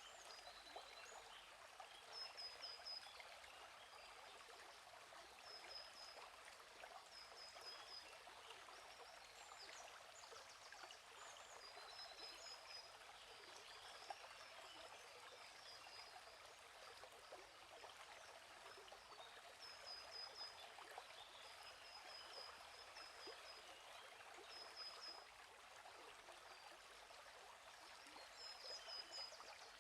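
Faint gently flowing stream, with birds chirping in short high trills every few seconds.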